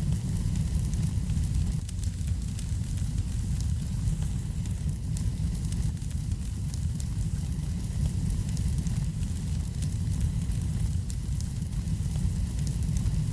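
Wood fire burning in a fireplace: a steady low rumble with many faint, scattered crackles.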